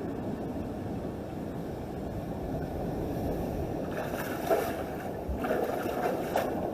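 Ocean waves washing over a rocky shoreline, with wind on the microphone. A few short, sharper sounds come in over the surf from about four seconds in.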